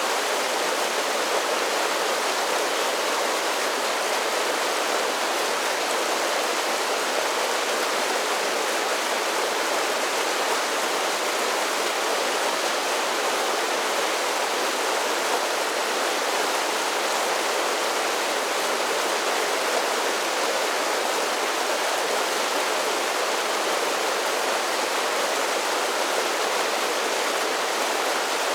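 Mountain creek splashing down a series of small waterfalls: a steady, even rush of water.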